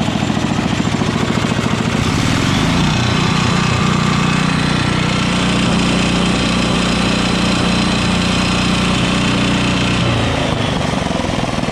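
Engine-driven welding generator built from a WWII aircraft generator, running and vibrating. Its engine speeds up about two to three seconds in, holds a higher steady speed, then drops back near the end.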